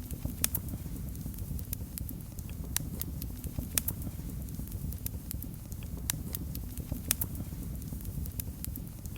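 Wood fire in a fireplace crackling: irregular sharp pops and snaps, several a second, over a steady low rush of the flames.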